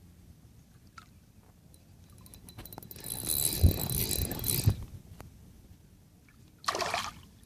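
Water splashing beside a small boat in a loud rush lasting under two seconds, with two sharp thumps in it, followed by a shorter splash near the end.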